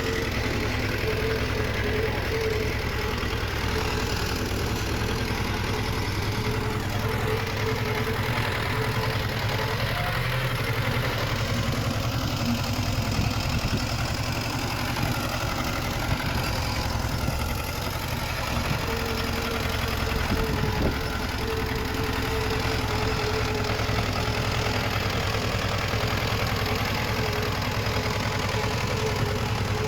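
Diesel engine of heavy earthmoving machinery running steadily, with a thin whine that comes and goes over it.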